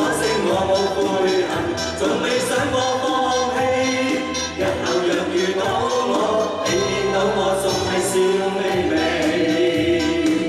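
A group of voices singing together in unison over a recorded music backing track.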